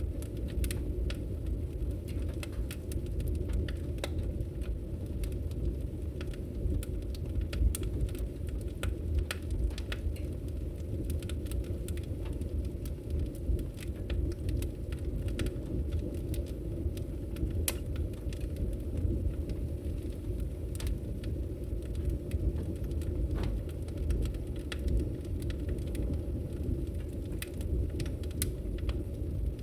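Wood logs burning in a fireplace, crackling with many irregular sharp pops and snaps over a steady low rumble.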